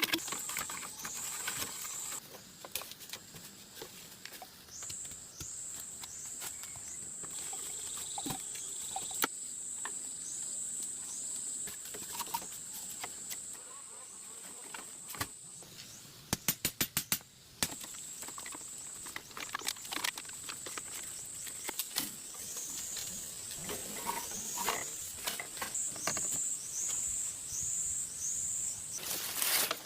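Forest ambience with a steady, high-pitched insect drone that breaks off and restarts, with short falling chirps over it, and scattered sharp clicks, including a quick run of clicks about halfway through.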